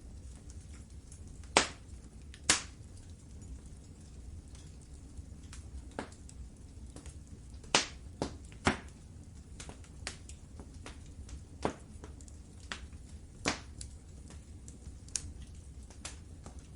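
Wood fire crackling in a fireplace: irregular sharp snaps and pops over a low, steady rumble of flames, with a few louder pops standing out, two close together near the start, two around the middle and one later on.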